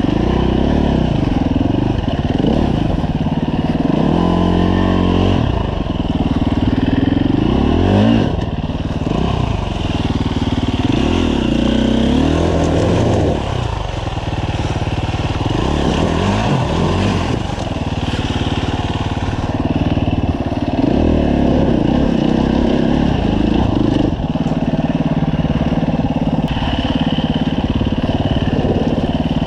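A 2015 Husqvarna FE 350's single-cylinder four-stroke engine being ridden hard off-road. Its revs climb and drop again and again as the throttle is opened and shut.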